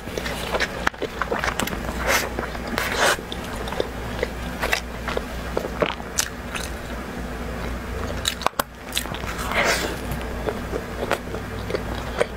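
Close-miked eating sounds: bites into pizza crust and chewing, with many small clicks and wet mouth noises.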